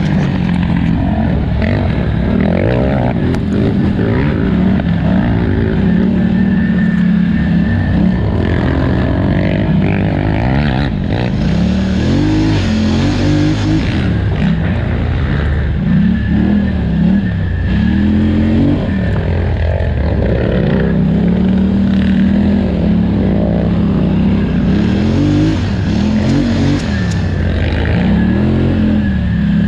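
Polaris Scrambler 1000XP ATV engine revving up and down over and over as the throttle is worked hard. Its pitch is held level for a few seconds at times, then falls away and climbs again.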